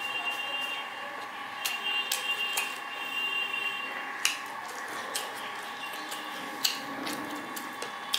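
A person chewing a mouthful of steamed chicken momos with the mouth closed, with several short, sharp wet mouth smacks, over a steady high-pitched background hum.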